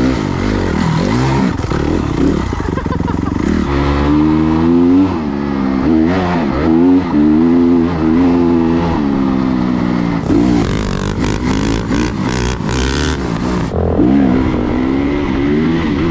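Dirt bike engine revving up and down over and over as it is ridden, its pitch rising and falling every second or so. A run of short rattling, clattering bursts comes about two-thirds of the way through.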